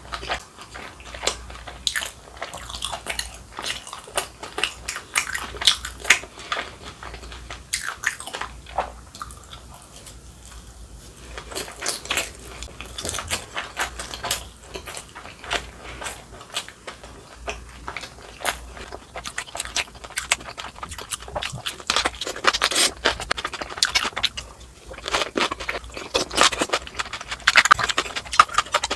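Close-miked eating sounds: chewing and crunching on a fried dumpling and on crisp stuffed cucumber kimchi (oi-sobagi), in quick, irregular crunches.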